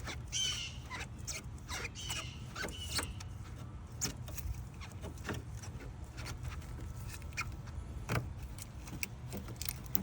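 Upper radiator hose being twisted and worked loose from its neck by hand: rubber squeaking briefly near the start and again a couple of seconds in, amid scattered clicks and knocks of handling.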